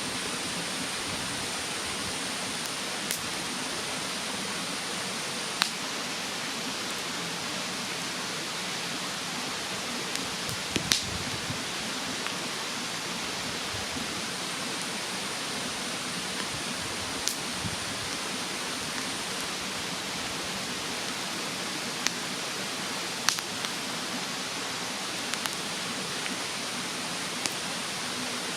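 Wood fire in a fire stand crackling, with sharp single pops every few seconds, over the steady rush of a mountain stream. A faint high insect trill comes and goes.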